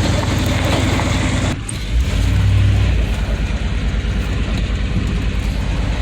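Vehicle engine running as it drives along a dirt road, with steady road noise. The engine note drops briefly about a second and a half in, then comes back up louder for a second or so before settling.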